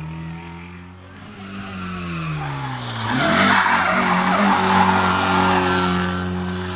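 Rally car engine, its note falling for the first few seconds, then held steady at high revs as the tyres squeal and scrub through a sideways slide for about three seconds, the loudest part.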